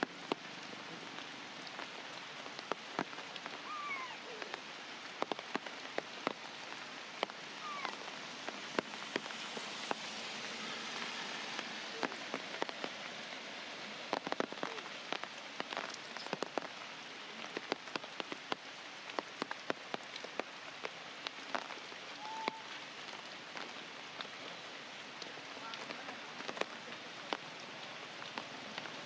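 Steady rain falling, with many sharp drops striking close by. A few faint, brief chirps rise above it now and then.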